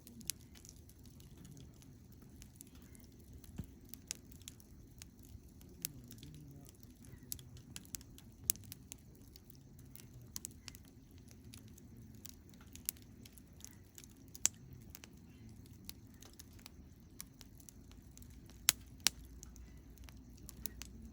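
Wood campfire crackling, with irregular sharp pops over a low steady rush of flame; two of the loudest pops come close together near the end.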